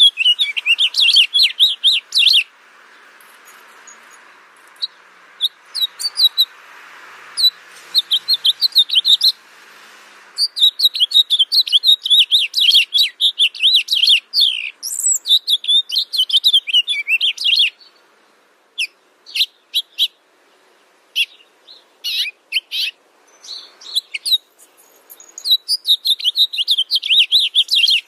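Small birds chirping in quick twittering runs of high notes, broken by short pauses and a few scattered single chirps.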